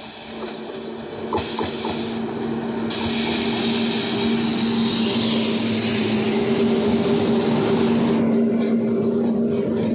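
Electric-hauled train passing on the rails: a steady locomotive hum, a few clicks early on, and a loud rushing hiss of wheels on track that swells about three seconds in and eases off near the end.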